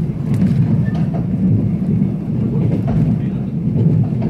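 Mugunghwa-ho passenger train running along the track, heard from inside the carriage as a steady low rumble with a few faint clicks.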